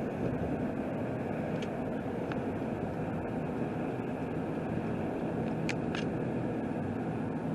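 Steady road and engine noise heard inside a vehicle's cabin at highway speed: an even rushing drone with a faint low hum. A few small clicks sound through it, two of them close together about six seconds in.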